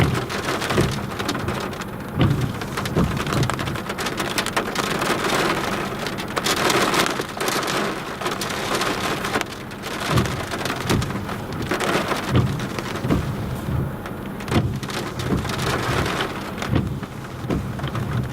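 Heavy rain pelting down in strong gusty wind, with wind buffeting the microphone in irregular low thumps.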